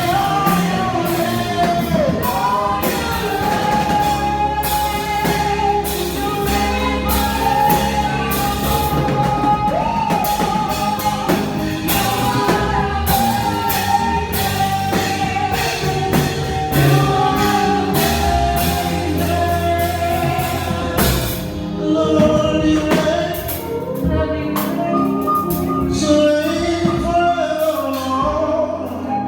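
Live gospel music: a lead singer holds long sung lines over a band with a steady drum beat and bass.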